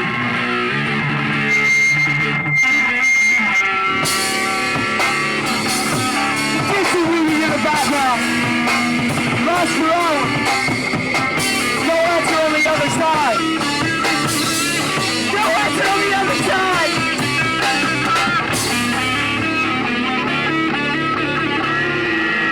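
Live rock band playing guitar-led rock music, with the guitar line bending up and down in pitch over the full band.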